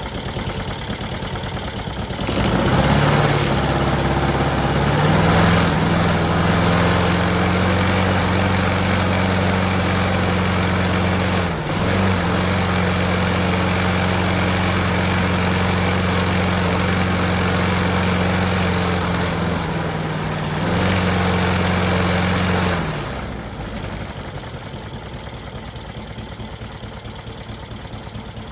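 Lawn mower petrol engine running after its first start in five years on a freshly cleaned carburetor. It picks up speed about two seconds in and runs steadily, with a brief stumble near the middle, then winds down about four-fifths of the way through, leaving a quieter hum.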